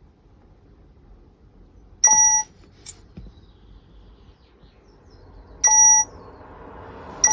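Peugeot 508's electronic warning chime beeping twice, each beep about half a second long and about three and a half seconds apart, a sound that keeps repeating with the ignition on while the engine ECU isn't communicating.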